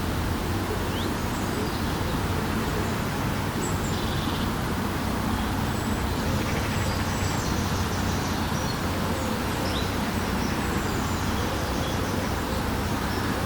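Steady low background rumble with faint, short, high bird chirps now and then.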